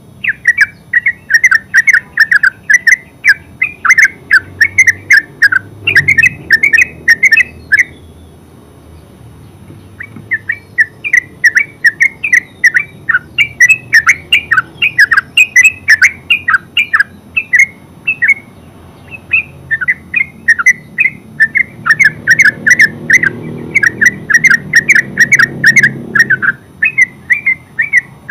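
Yellow-vented bulbul singing its bubbling, chattering song: long runs of rapid short notes in phrases several seconds long, with a break of about two seconds a third of the way in.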